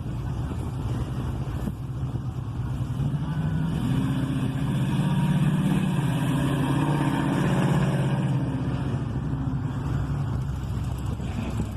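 A car engine running as the vehicle drives by, swelling louder in the middle and easing off again.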